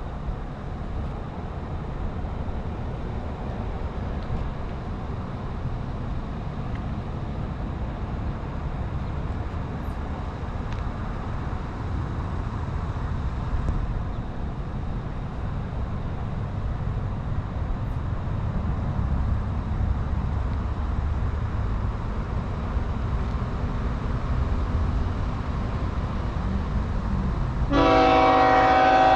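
Approaching train's low, steady rumble, slowly growing louder, then the locomotive's multi-note air horn sounding loudly near the end.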